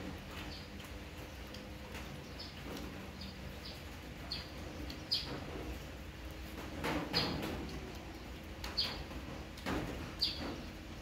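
Short high chirps of a small bird, repeated every second or two, over soft clicks and knocks of people eating from plates.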